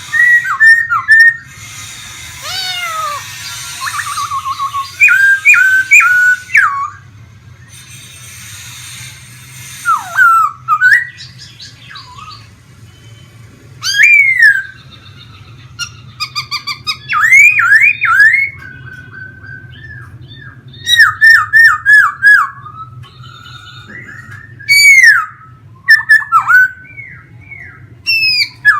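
Laughingthrush singing: loud whistled phrases of rapid, repeated rising and falling notes, delivered in bursts with short pauses between them.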